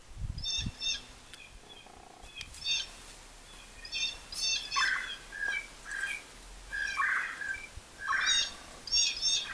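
Wild birds calling: short, high chirps in quick clusters every second or so, with lower, harsher calls mixed in from about five seconds in.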